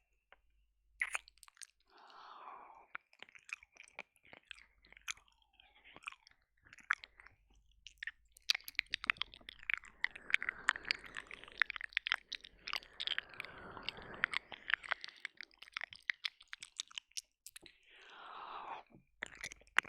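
Close-miked wet mouth sounds of ASMR ear licking and ear eating on a binaural dummy-ear microphone: sticky clicks, smacks and licks, sparse at first and turning into a dense run through the middle, with a couple of soft breaths.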